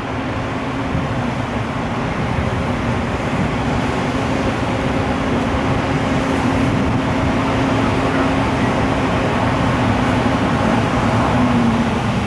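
JR Freight EF510 electric locomotive and its container freight train running, heard as a steady low hum over a continuous rumble that slowly grows louder, with wind noise on the microphone.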